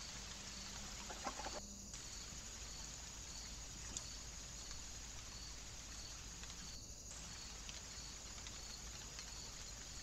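A short run of bird calls about a second in, over steady, evenly repeated insect chirping, about two chirps a second, and a soft hiss from a trail camera's microphone. The audio is sped up to double speed, and there are two brief dropouts where clips are joined.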